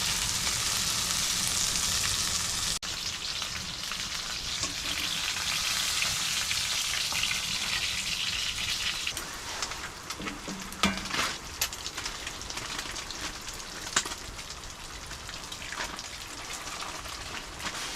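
Maple sausages sizzling in a cast iron skillet: a steady hissing fry, louder in the first half and fainter later, with a few light clicks.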